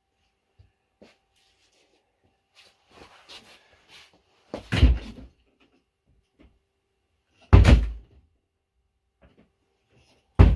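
Three loud bangs against a door, a few seconds apart, with faint clicks and rattles between them.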